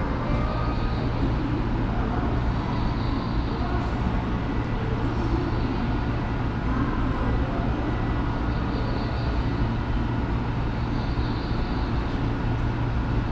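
Electric commuter train at a station platform: a steady low hum over an even rumbling noise.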